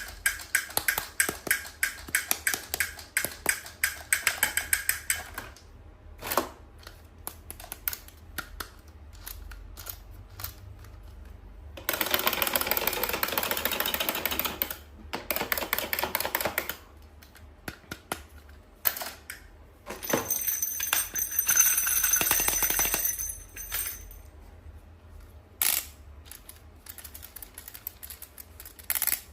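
Toy unboxing handling sounds: a fast run of clicks and taps for about five seconds, then scattered taps, with two longer stretches of rustling packaging, one near the middle and one about two-thirds through.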